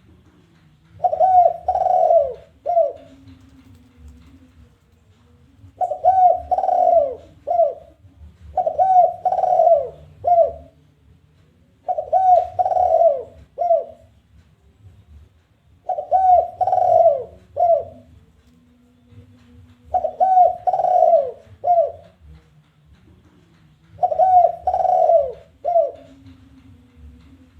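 Spotted dove giving its challenging territorial coo, the call played as a lure: about seven phrases of three or four coos each, repeated every few seconds.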